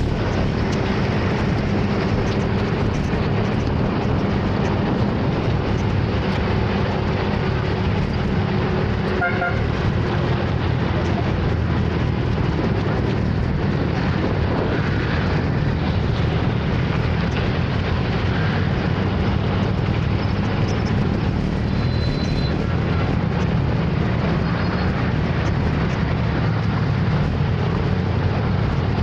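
Steady rush of wind and engine noise from a scooter riding through city traffic, with a short horn beep about nine and a half seconds in.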